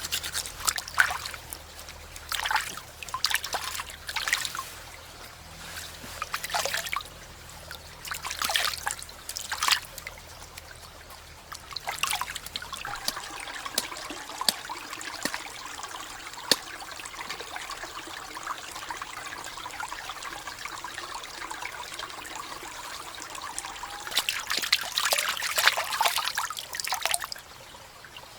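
Water pouring and splashing in short spurts, then a steadier trickle for about ten seconds, then more splashing near the end.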